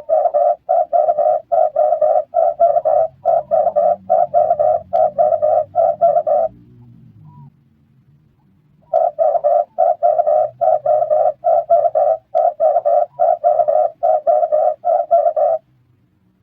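Red turtle dove cooing in two long runs of rapid, evenly spaced notes, about two to three a second, each run lasting about six seconds, with a pause of about two and a half seconds between them.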